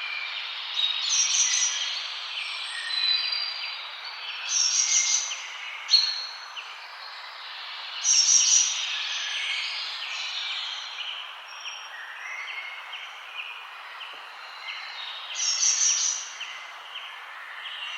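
Several birds singing and chirping at once, with loud high trilling phrases coming back every three to four seconds over a steady background hiss.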